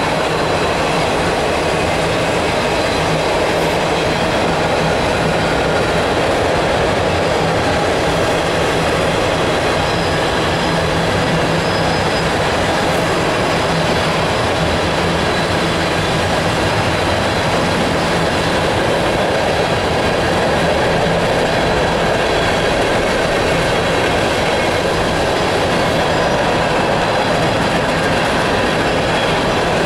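Freight cars of a long train rolling past close by: steady, loud noise of steel wheels on the rails as tank cars and covered hoppers go by.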